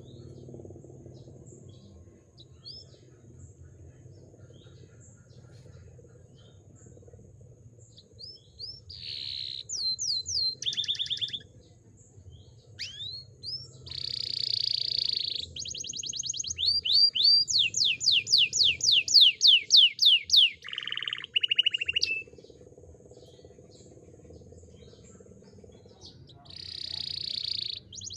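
Canary singing, its song filled with phrases copied from other birds. After a few faint chips, it breaks into loud phrases: rapid runs of repeated sweeping whistles about five a second, buzzy rattles and fast trills. It pauses for a few seconds, then sings another rattle and trill near the end.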